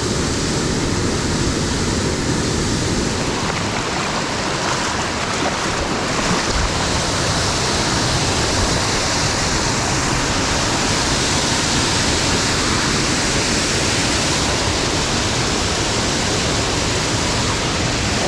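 Waterfall on a small mountain stream, the falling water rushing in a steady, even wash.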